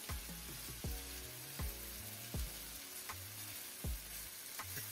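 Chicken breast strips sizzling as they fry in a skillet, turned over with a fork. Background music with a steady beat runs underneath.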